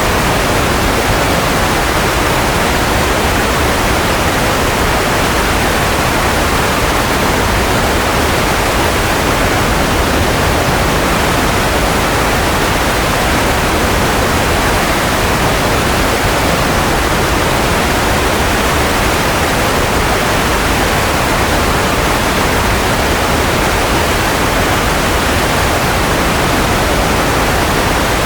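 Continuous white noise: a steady, even rushing hiss that never changes.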